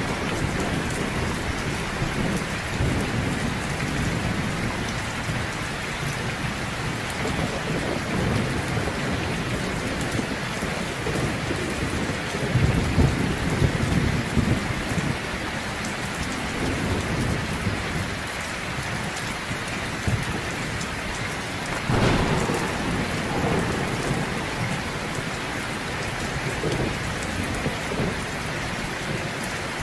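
Heavy rain pouring steadily, with rumbles of thunder rolling through the middle and a sharper thunderclap about twenty-two seconds in.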